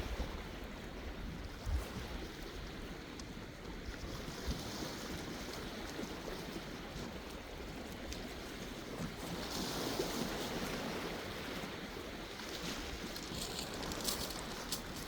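Sea waves washing in against the shore in a steady hiss, one wash swelling louder about ten seconds in, with wind rumbling on the microphone.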